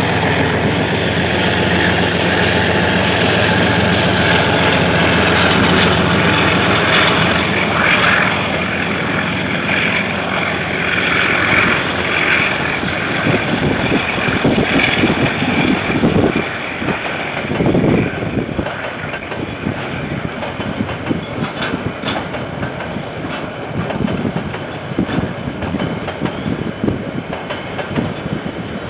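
KiwiRail diesel freight locomotive passing with its engine running steadily. From about halfway the sound turns to the clatter and knocking of container wagons rolling past over the rails.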